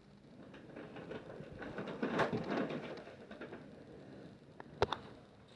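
A bird calling, loudest about two seconds in, with a couple of sharp clicks near the end.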